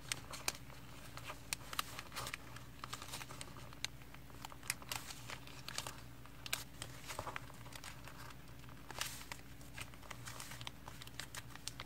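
Paper being folded and creased by hand: irregular crinkles, rustles and small taps.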